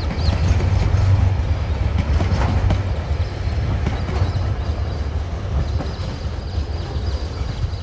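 Loaded container wagons of a TasRail freight train rolling past on the rails: a steady low rumble with wheel clicks, easing off as the last wagon goes by.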